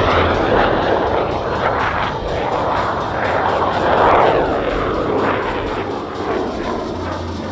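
Yak-110 flying past, its two radial propeller engines and GE J85 jet engine making a loud roar that swells and fades several times, loudest about four seconds in.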